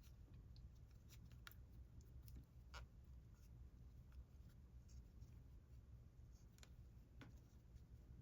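Near silence with faint, scattered ticks and scratches of a crochet hook working through yarn, over a low steady hum.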